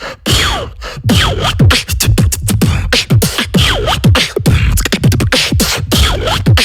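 Human beatboxing: a fast mouth-made beat of deep kick-drum hits and sharp snare-like clicks, with a sound that sweeps down in pitch about once a second.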